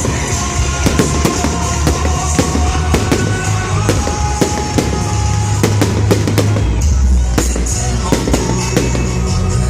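Fireworks display: many irregular bangs and crackles of shells bursting, over loud music from the show's soundtrack.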